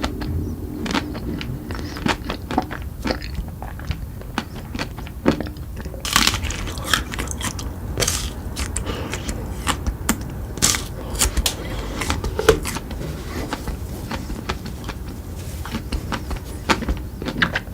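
Close-up biting and chewing of crunchy chocolate treats: irregular sharp crunches and crackles, a bite every second or so with smaller crackles between.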